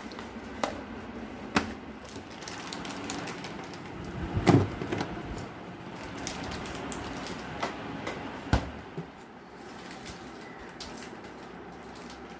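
Handling noises as things are moved about: a few scattered clicks and knocks, with one louder thump about four and a half seconds in and another sharp knock near the end.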